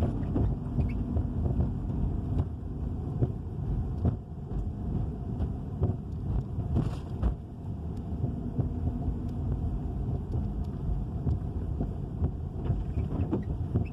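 2013 Dodge Charger Hemi V8 car running on the move, a steady low rumble with irregular light knocks and rattles. The owner calls it a rattling, knocking noise and does not know its cause.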